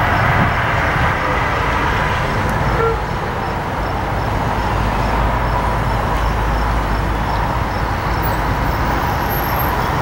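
Steady low rumble of diesel trains, with road traffic noise mixed in.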